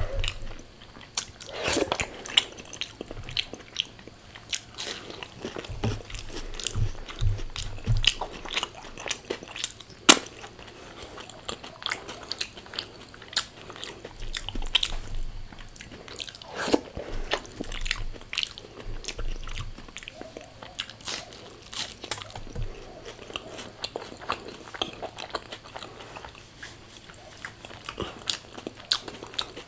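Close-miked eating: chewing with many irregular sharp, crunchy crackles from bites of crisp food.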